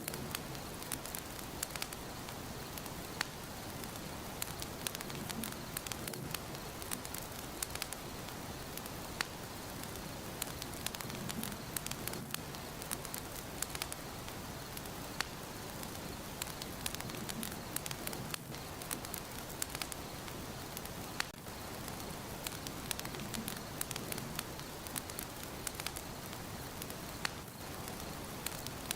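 Wood fire burning in a fireplace: a steady hiss with frequent sharp, irregular crackles and pops.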